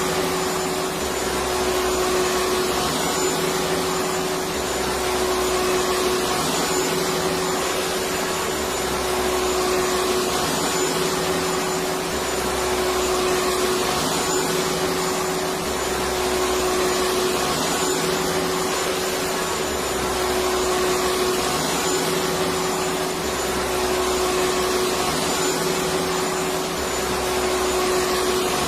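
Electric vacuum cleaner running steadily: a continuous rushing hiss with a steady motor whine, over a low rumble that comes and goes every few seconds.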